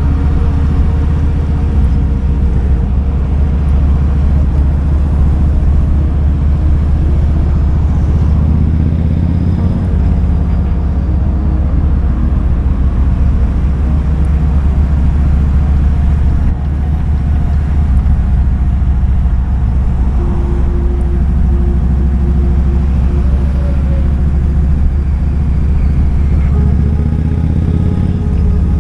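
Kawasaki Vulcan 2000's 2,053 cc V-twin engine running steadily while riding, a deep, even engine sound with no large changes in revs.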